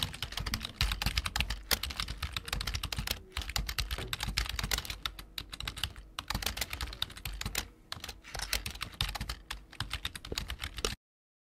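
Typing on a computer keyboard: a fast, continuous patter of key clicks with a couple of brief pauses, cutting off abruptly near the end.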